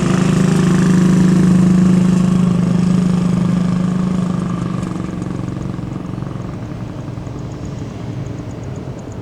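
Jet airliner engines, a loud steady low drone that fades gradually over the second half.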